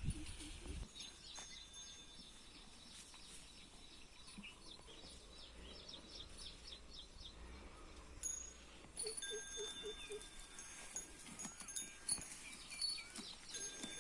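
Birds calling in the open: a quick run of repeated chirps, scattered high whistles, and four low notes in a row about nine seconds in. Clear, bell-like ringing tones come and go among the calls.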